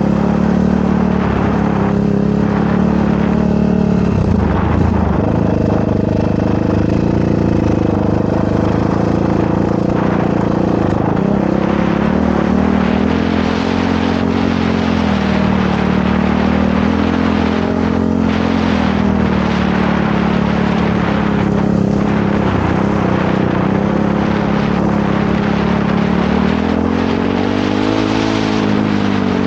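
Motorcycle engine running steadily under load, its pitch rising and falling repeatedly with the throttle, with a quicker rise near the end.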